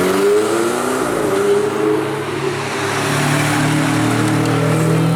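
Ferrari 488 GTB's twin-turbo V8 running loud under throttle. The engine note rises and falls over the first two seconds, then holds steady.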